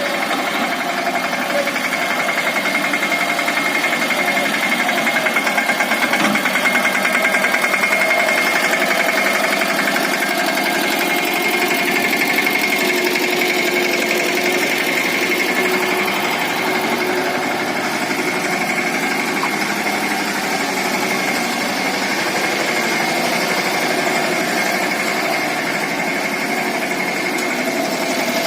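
Mahindra Yuvraj 215 NXT mini tractor's single-cylinder diesel engine running steadily, with a fast even chugging.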